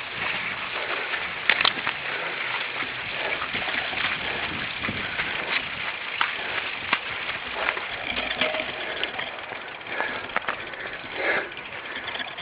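Cyclocross bike ridden over rough ground: a steady rush of tyre noise with frequent sharp rattling clicks from the bike jolting over bumps.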